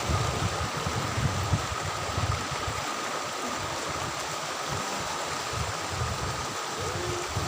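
Steady rush of flowing river water, with irregular low rumbling on the microphone.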